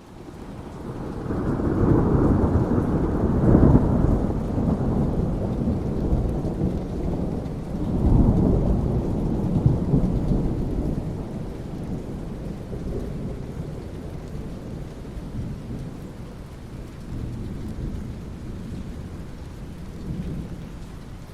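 Thunder rumbling over steady rain: a long roll swells up in the first few seconds, a second roll comes about eight seconds in, and then the thunder dies away, leaving the rain.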